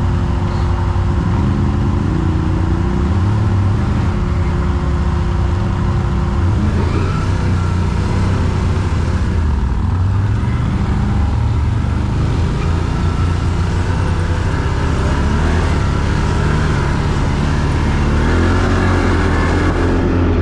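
Quad bike (ATV) engine running while riding off-road, its pitch shifting up and down with the throttle and rising again near the end.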